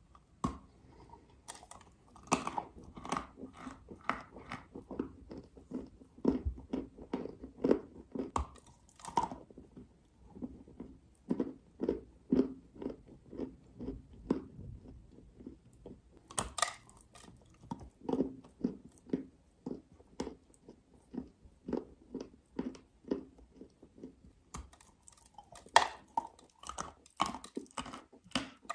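Dry clay being bitten and chewed close to the microphone. Sharp crunching bites a few times, near the start, about halfway, and shortly before the end, each followed by steady chewing at about two strokes a second.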